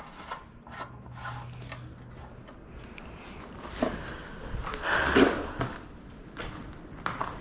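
Scattered clicks, taps and knocks of hands working on a lawn mower's parts, with a louder scraping rustle about five seconds in.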